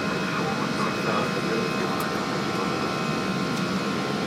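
Steady cockpit noise of an Airbus A319: an even rush of air and fans with a few thin, steady high tones over it.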